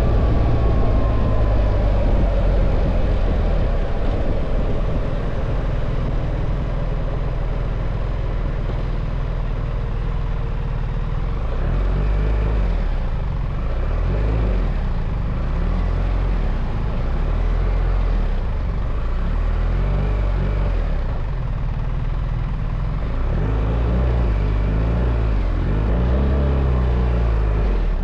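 BMW R1300 GS boxer-twin engine running while riding, its note rising and falling as the throttle is opened and closed, over a steady rush of wind.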